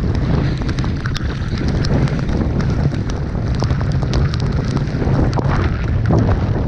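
Strong wind buffeting the microphone: a loud, steady low rumble with scattered crackles.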